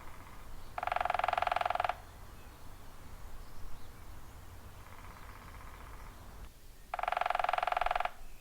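Woodpecker drumming: two loud rolls of rapid strikes on wood, each about a second long and some six seconds apart, with a fainter roll in between.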